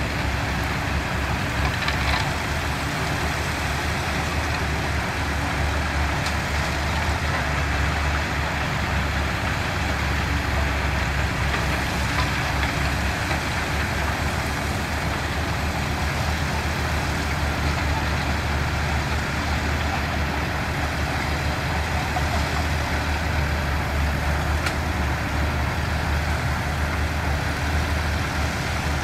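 Diesel engine of heavy construction machinery running steadily, a low, even drone without breaks.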